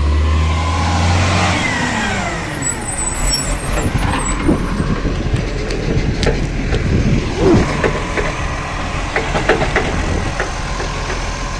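Garbage truck at work on a green waste collection: the engine and hydraulics run up, then their pitch slides down over the first couple of seconds, followed by a run of irregular knocks and clattering.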